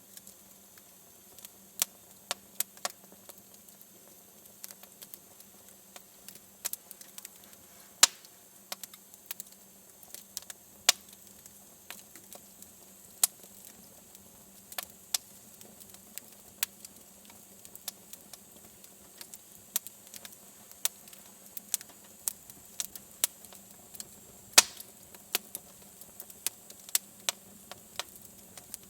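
Wood fire burning in a fireplace: irregular crackles and pops over a faint hiss, with two sharper pops standing out, one about eight seconds in and one near twenty-five seconds.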